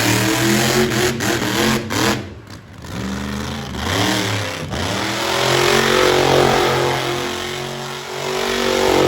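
Monster truck engine revving hard, its pitch climbing and falling as the throttle opens and closes, dropping off briefly twice before being held high for several seconds.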